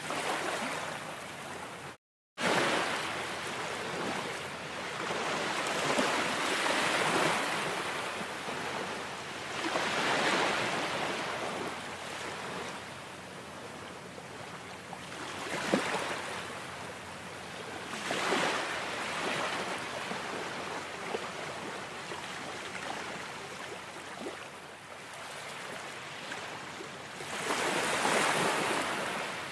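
Ocean waves washing in, each surge swelling and then fading every few seconds. The sound drops out completely for a moment about two seconds in.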